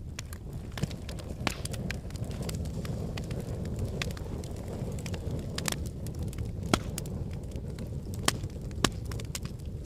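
Logs burning in a fireplace: a steady low rush of flame with frequent irregular crackles and pops, and a handful of louder snaps.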